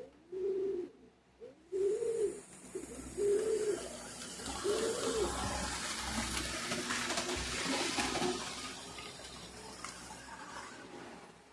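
A cooing bird, several rising-and-falling coos over the first five seconds. From about two seconds in, a rushing noise with light clicks swells and then slowly fades.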